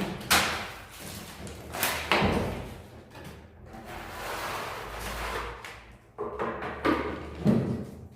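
Irregular scraping and knocking of plastering tools as gypsum plaster is worked onto a ceiling, with a few sharper knocks, about a quarter second in, around two seconds in and near the end.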